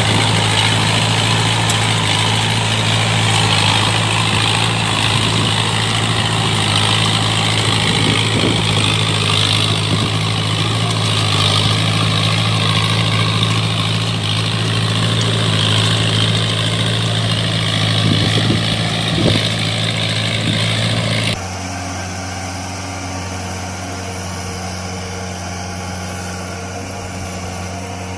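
Diesel engine of a walking tractor (power tiller) running steadily. About three-quarters of the way through, the sound cuts abruptly to a quieter, lower engine running.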